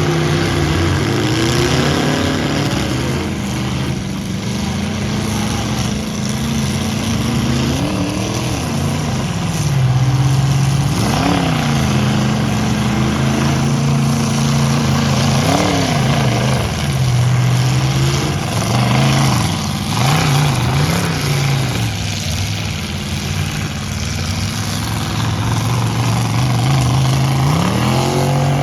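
Engines of full-size pickup trucks in a demolition derby, running hard and revving over and over. The pitch climbs and drops back every few seconds over a steady low drone of several engines.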